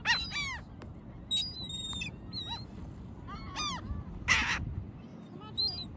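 A flock of birds calling: many short, harsh pitched calls that overlap and repeat, with a louder, rougher squawk about four seconds in.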